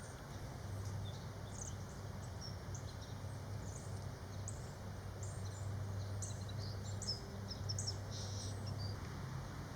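Small birds chirping: many short, high calls scattered throughout, over a faint, steady low rumble.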